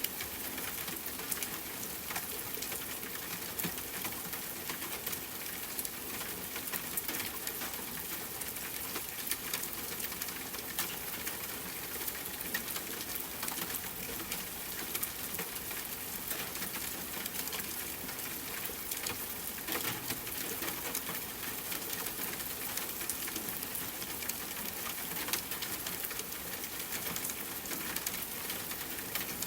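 Steady rainfall mixed with a crackling wood fire: an even hiss of rain with frequent small, sharp pops and crackles from the burning wood.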